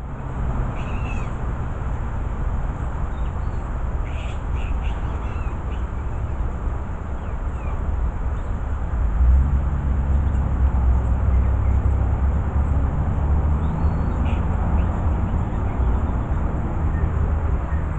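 A few short bird calls in small clusters, about a second in, around four to five seconds in, and again near fourteen seconds, over a steady low rumble.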